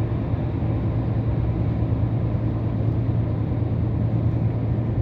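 Scania R500 truck's 13-litre six-cylinder diesel running at a steady speed on the road, an even low drone with road noise that does not change.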